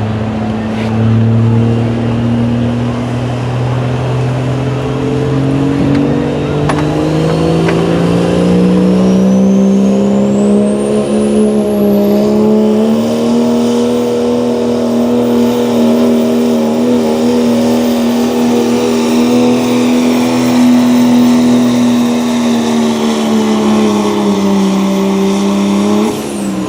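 Pulling truck's Cummins diesel engine under full load on a pulling run, climbing steadily in pitch for about twelve seconds while a high whistle rises with it, then held high and steady before backing off near the end.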